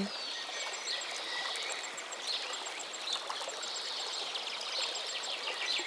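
Many baby chicks peeping at once, a faint, dense, high twittering.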